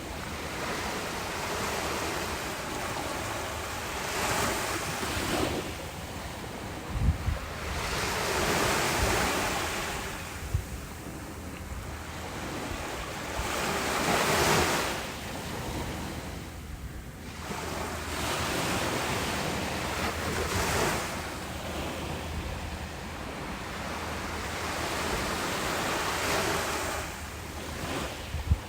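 Ocean waves breaking and washing up a beach, swelling and fading every few seconds, with wind on the microphone giving a couple of brief low thumps.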